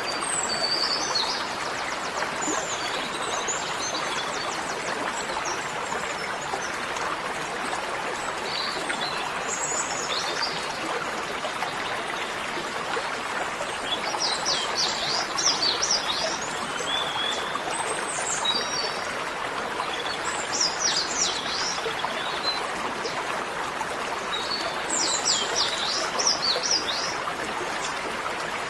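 Small birds chirping in several short clusters of quick high notes, over a steady rush of flowing water.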